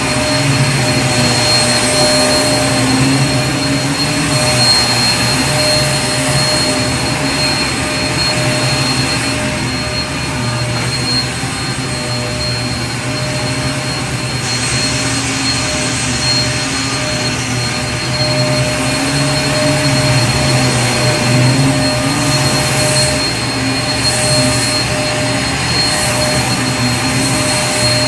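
Vacuum cleaner running steadily: a continuous motor whine over a rush of air.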